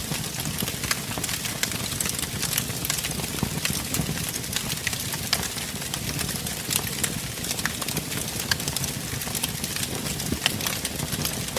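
Wood fire burning in a fireplace: a steady hiss and rumble of flames with frequent, irregular sharp crackles and pops from the burning logs.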